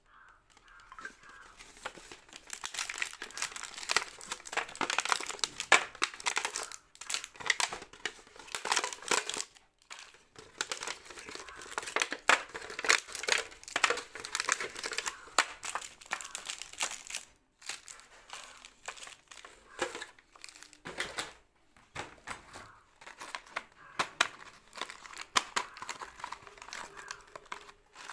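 Crinkling plastic sweet and snack wrappers being handled and torn open, in crackling stretches of several seconds with short pauses between them.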